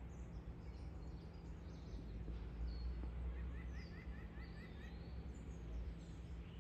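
Birds chirping over a steady low background hum. A little over three seconds in, one bird gives a quick run of about seven repeated notes.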